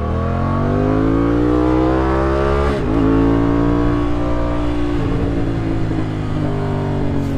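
Kawasaki motorcycle engine accelerating under way, its pitch climbing, then dropping at an upshift about three seconds in and climbing again more slowly.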